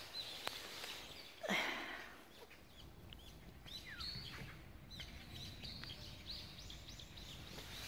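Small birds chirping, many short quick calls, with one louder brief sound about one and a half seconds in.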